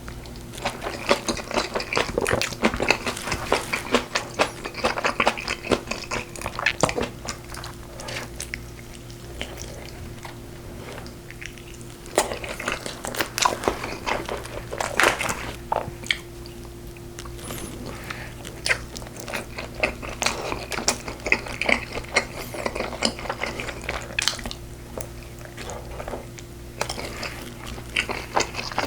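Close-miked eating sounds: biting into and chewing braised pork ribs (galbi-jjim), with many short irregular clicks and crunches. A faint steady hum runs underneath.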